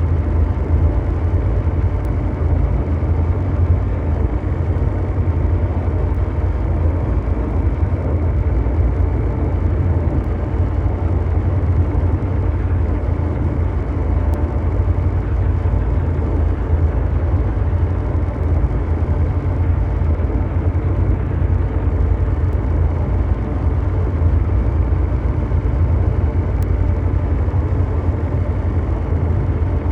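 Synthesised mechanical drone: a steady, deep engine-like rumble with a dense hum above it and faint held tones, unchanging throughout, made as brown-noise-style ambience.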